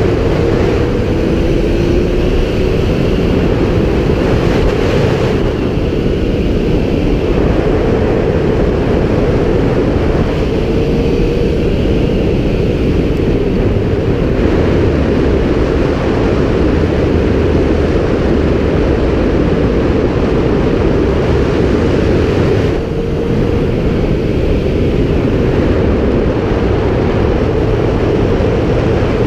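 Kawasaki Z750's inline-four engine running under way, with heavy wind rush over the microphone. The engine note rises in pitch a few times as the bike accelerates.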